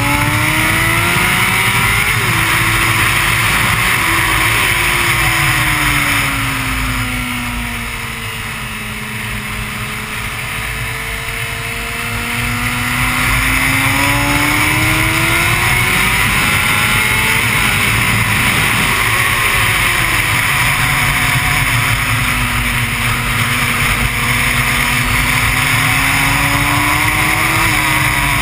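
Honda CBR600 inline-four engine heard onboard at track speed, its pitch climbing under throttle and falling off several times as the rider accelerates and slows for corners, with a longer quieter easing-off about a third of the way through. A steady rush of noise lies under the engine throughout.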